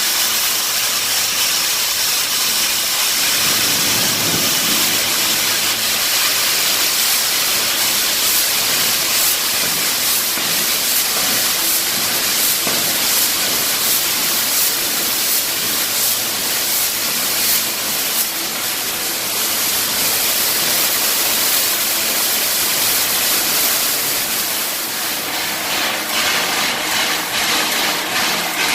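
Steam engine hissing steadily as steam escapes while it is being fired up.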